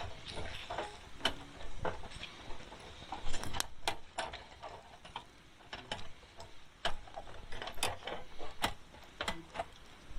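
Campfire crackling: burning wood giving off irregular sharp pops and clicks, some louder snaps among them.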